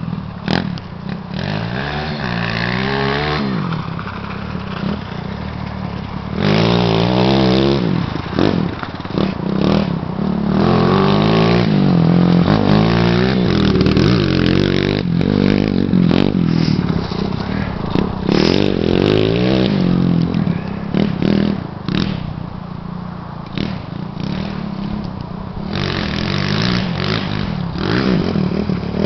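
Dirt bike engine running under riding, its pitch rising and falling again and again as it revs up and drops back, louder from about six seconds in.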